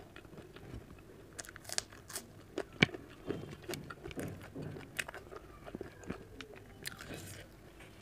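Close-up chewing of okra sabji and chapati, with scattered sharp crunches and clicks; the strongest crunch comes about three seconds in.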